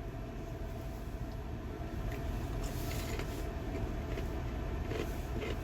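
Steady low rumble of an idling vehicle engine, with a few faint clicks over it.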